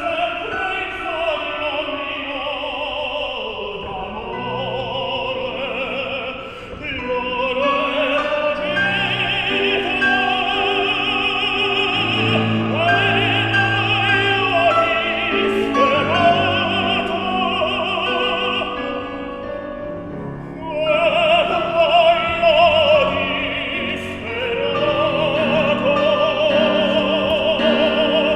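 Operatic singing with vibrato, accompanied by instruments.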